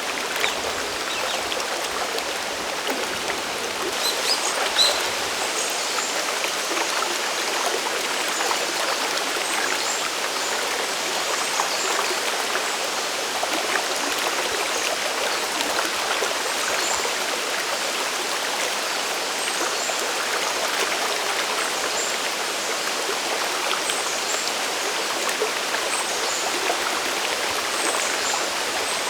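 Steady rush of Sagiri Falls and its mountain stream: water pouring and splashing in an even, unbroken noise.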